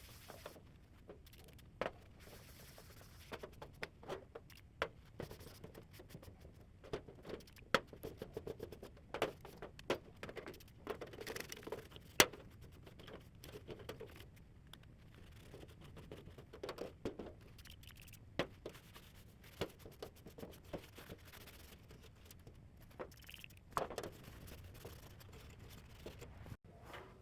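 Hands working on a DirecTV D12-500 satellite receiver: irregular light clicks, taps and short scraping or rubbing sounds of plastic and small parts being handled. The sharpest click comes about twelve seconds in.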